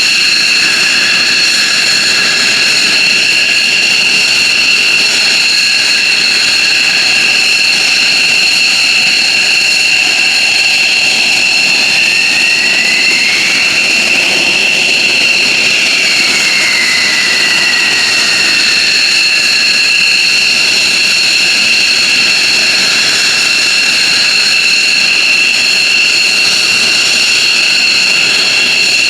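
F-15J Eagle's Pratt & Whitney F100 turbofan engines running steadily with a loud high-pitched whine over jet rush. About halfway through, a second whining tone rises and falls away over several seconds.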